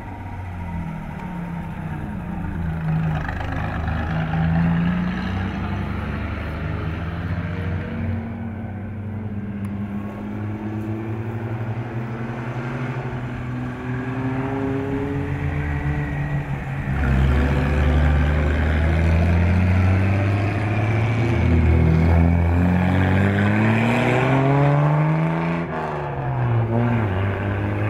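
Vintage Officine Meccaniche (OM) sports cars driving up a road one after another. Their engines rev up and down through gear changes and get louder in the second half, with a close pass near the end.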